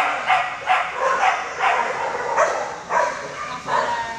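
Many dogs in a shelter barking together, a steady run of overlapping barks and yips, about two or three a second.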